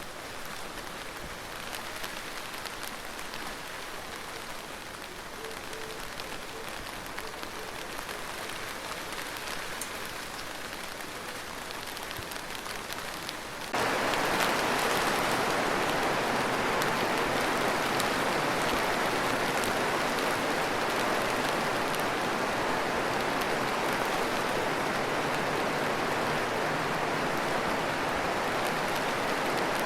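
Rain falling steadily, lighter at first, then abruptly much louder and fuller about halfway through as heavy rain takes over.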